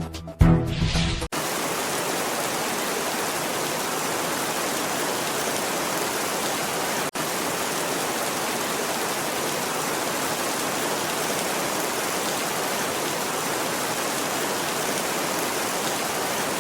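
Steady, even rushing of water in heavy rain, with one momentary cut-out about seven seconds in. Background music ends about a second in, just before the water noise starts.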